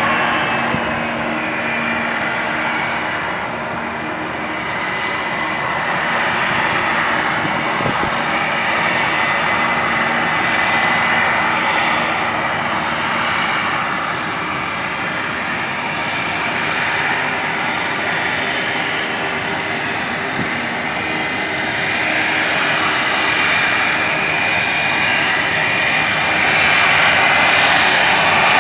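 Jet engines of a Boeing 757-200 freighter running, a steady dense rush of noise with thin high whine tones laid over it, growing a little louder near the end.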